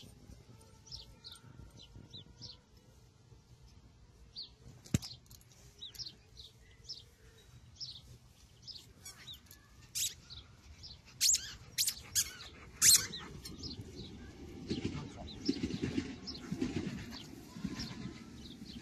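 Small birds chirping in short, repeated falling notes, with a few sharp clicks, the loudest bunched around the middle, and a low rough noise for several seconds near the end.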